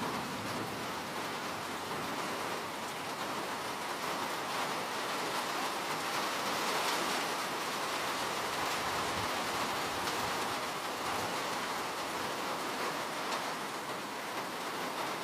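Steady rain falling, an even hiss of many drops without pause.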